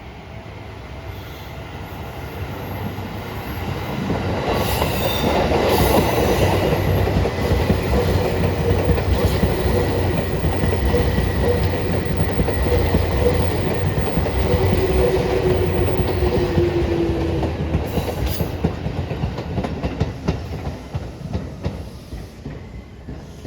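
A Seibu Ikebukuro Line electric train passing. Its rumble builds over about six seconds, then holds loud with rapid wheel clatter and a thin steady whine, and fades away over the last few seconds.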